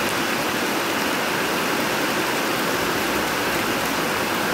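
Heavy rain falling in a steady downpour, a dense, even hiss.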